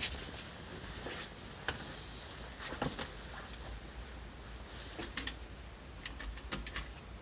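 Scattered light clicks and taps, a few clustered near the end, over a faint steady low hum.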